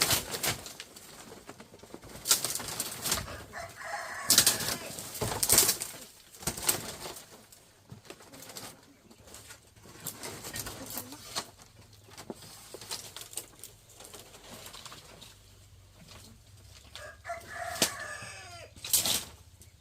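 A run of sharp knocks, cracks and rustling as a rotten old chicken coop is pulled apart by hand, loudest in the first few seconds and again near the end. A chicken calls once near the end.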